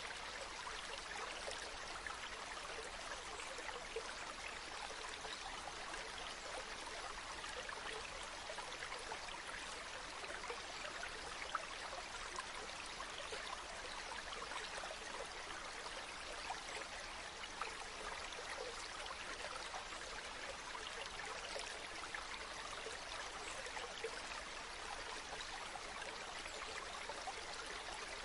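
Flowing stream water, a steady babbling and trickling with many small splashes.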